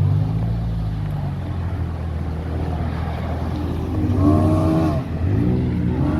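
A car engine idling with a steady low rumble. About four seconds in, a higher-pitched sound rises and falls for about a second, and it comes again near the end.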